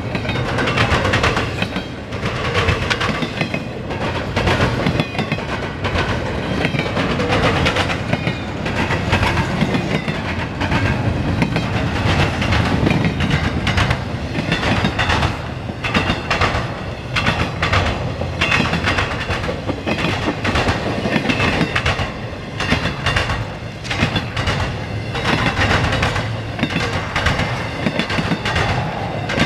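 Norfolk Southern double-stack intermodal freight train rolling past: a steady rumble of the container and trailer cars, with wheels clacking over rail joints again and again.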